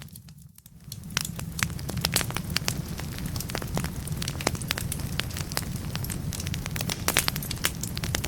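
Wood fire burning in a fireplace: irregular sharp crackles and pops over a steady low rumble. It briefly drops away near the start.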